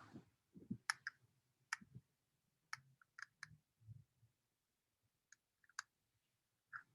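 Faint, irregular sharp clicks, about a dozen, some in quick pairs.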